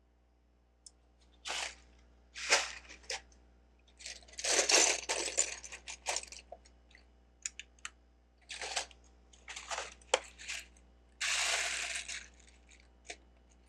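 Loose plastic Lego pieces rattling and clicking as they are handled and pressed together: several short rustling bursts, the longest about a second, with separate sharp clicks in between.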